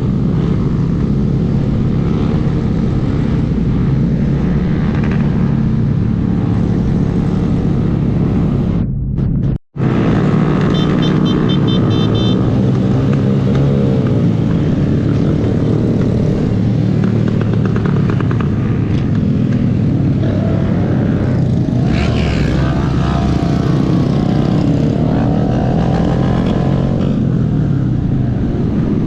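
Small 125 cc single-cylinder Honda motorcycle engine running on the road, its pitch rising and falling as the throttle opens and closes. The sound cuts out briefly about nine and a half seconds in, and a short run of high beeps follows soon after.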